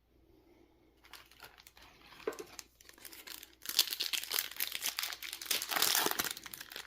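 Foil wrapper of a Yu-Gi-Oh booster pack crinkling and crackling as it is handled and opened, faint at first and much louder from about four seconds in.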